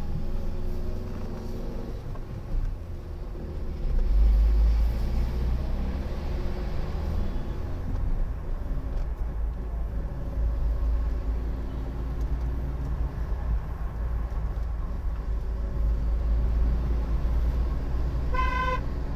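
Car driving uphill on a winding mountain road, with steady engine and road rumble in the cabin. A car horn gives one short honk near the end.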